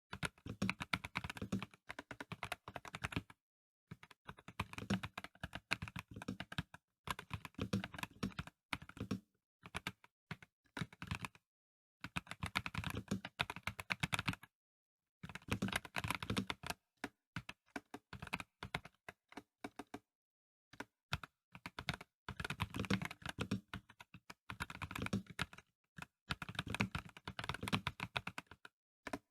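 Typing on a Dareu A98 Pro mechanical keyboard with non-clicky VioletGold Pro switches: rapid runs of keystrokes lasting a few seconds each, broken by brief pauses.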